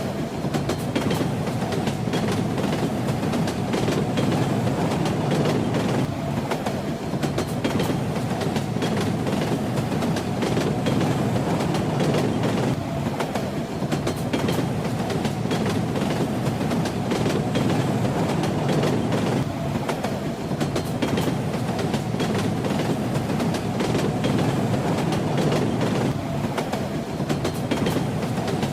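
Steady rumble inside a moving train carriage, with the wheels clattering over the rail joints in a continuous clickety-clack.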